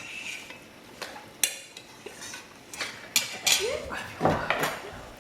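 Cutlery clinking against a plate as a toddler eats: a run of sharp clinks and knocks, with a brief voice sound about four seconds in.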